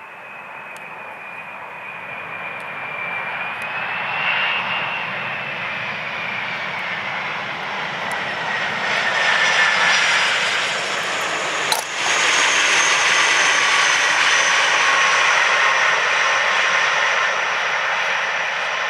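Boeing 747-400F's four turbofan engines on landing approach, growing louder as it comes in, with an engine whine that slides down in pitch as it passes. A single sharp crack cuts through about two-thirds of the way in.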